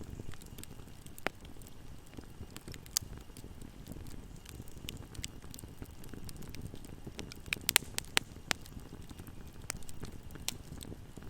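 Fire crackling in a fireplace: a steady low rumble of flames with scattered sharp pops, and a quick cluster of louder pops about eight seconds in.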